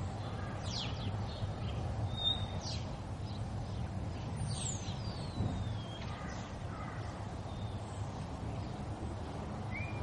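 Outdoor background with a steady low rumble and birds calling now and then: short falling chirps, and one long falling whistle about halfway through.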